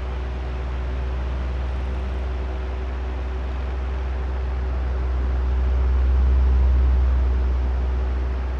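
Oscillating electric fan running: a steady airy drone with a low rumble and a faint motor hum. It swells louder about six to seven seconds in and eases off again as the head sweeps back and forth.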